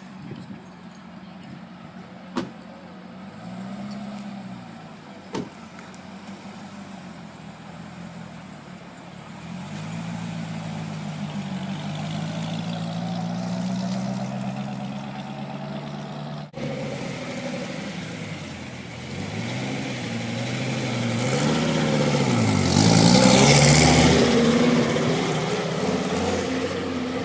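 Car engines running at low speed as cars pull in, their revs rising and falling again and again. A car passes close late on and is the loudest moment.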